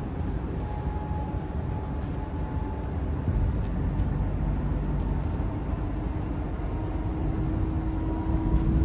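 Cabin noise inside a moving electric multiple unit: a steady low rumble with a faint whine that creeps slightly upward in pitch, and a second, lower whine coming in about two-thirds of the way through.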